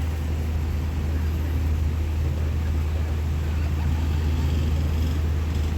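Steady low rumble of a moving passenger train, rapid train 167, heard from on board as it runs along the line at a constant pace.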